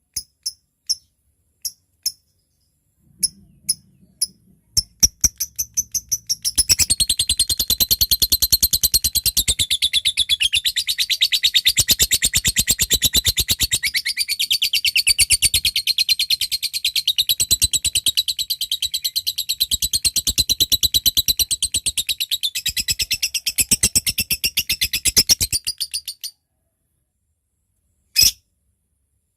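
Lovebird calling: sharp single ticking notes, spaced and then quickening over the first six seconds ('ngetik'), run into a long, very fast chattering trill ('ngekek panjang') of about twenty seconds that stops suddenly. Two single notes follow near the end.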